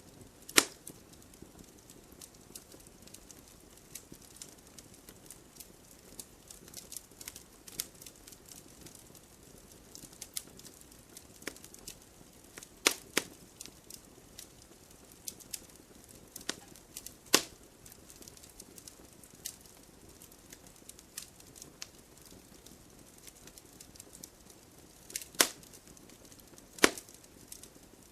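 Wood fire crackling in a fireplace: irregular small snaps and pops over a faint hiss, with a few louder sharp pops, two of them close together near the end.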